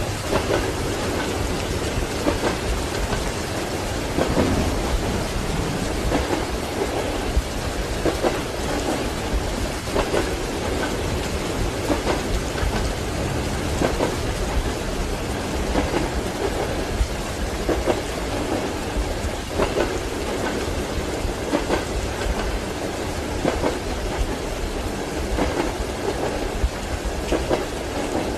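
Rain falling steadily while train wheels clack rhythmically over the rail joints, under a low rumble of thunder.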